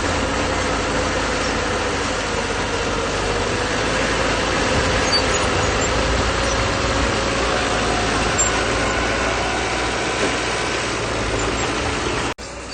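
Bulldozer's diesel engine running steadily, with a strong low rumble and a held hum. Near the end the sound drops out for an instant and picks up again quieter.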